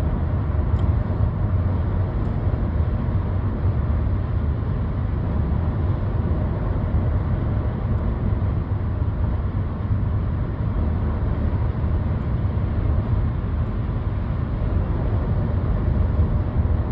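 Steady low road rumble and engine hum of a 2008 Lexus ES350 with its 3.5-litre V6 under way, heard from inside the cabin.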